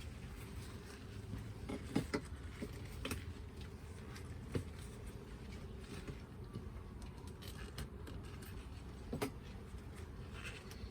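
Beehive frames and tools being handled during a hive inspection: a few scattered wooden clicks and knocks over a low steady rumble.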